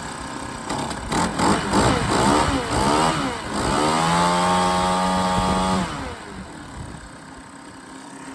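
Small four-stroke engine of an Atom lawn edger, running on a freshly fitted replacement carburetor with its original jets. It is revved up and down several times, held at a steady high speed for about two seconds, then drops back down near six seconds in.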